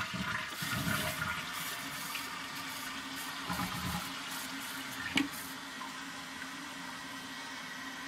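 1995 Vitromex Marathon toilet flushing with its tank open: water rushes out for about four seconds, then settles into a steady hiss with a low hum as the tank refills. There is one sharp click about five seconds in.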